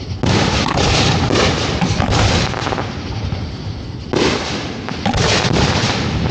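Display fireworks going off in quick succession: sharp bangs with dense crackling after them, one volley starting about a quarter second in and another about four seconds in, with more bangs soon after.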